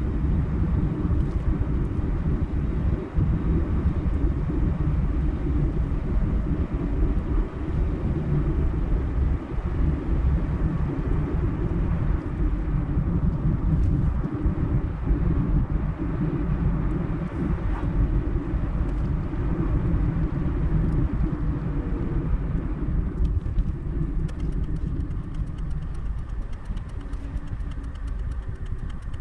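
Car on the move: steady low engine and road rumble, which eases off a little near the end as the car slows.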